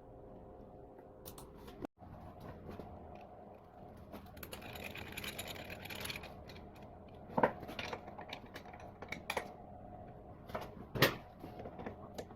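Hand work on engine parts: scattered sharp clicks and knocks of tools and metal parts, two louder knocks in the second half, over a steady workshop hum.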